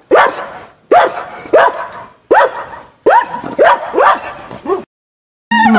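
A dog barking repeatedly: a series of about eight sharp barks, roughly one a second or a little faster, that stop about five seconds in.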